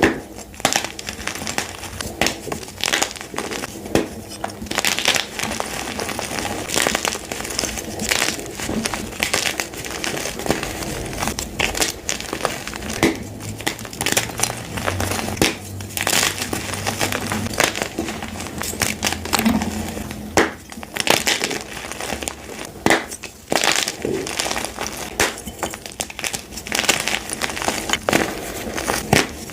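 Blocks of gym chalk being crushed and crumbled, a continuous dense crunching and crackling with many sharp crisp snaps.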